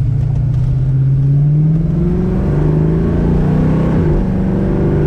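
1967 Mustang's 331 stroker V8 accelerating hard, its engine note climbing in pitch. The note drops back twice, about two seconds in and again about four seconds in, as it shifts up, then climbs again.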